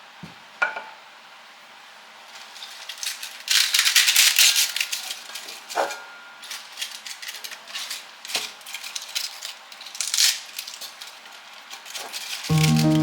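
Kitchen handling sounds: a few sharp clinks of dishes or utensils and several short bursts of rustling hiss. Background music comes in near the end.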